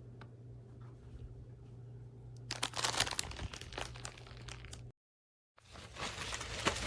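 Crinkling and rustling of packaging being handled, in bursts starting about halfway in, over a steady low hum. The sound drops out completely for a moment before the crinkling resumes.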